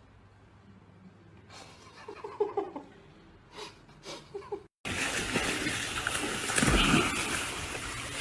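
Faint short sounds, then after a break, loud splashing and churning water, with a low thump about two seconds into the splashing.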